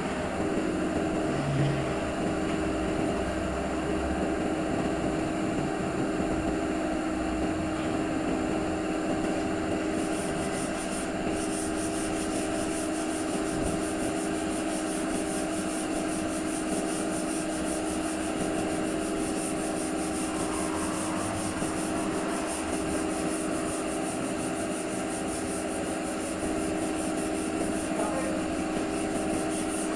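A steady mechanical hum from a running motor-driven machine, with a fine high buzz joining about a third of the way in.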